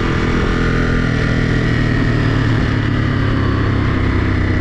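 2023 Ducati Monster 937's 937 cc L-twin engine idling steadily while warming up.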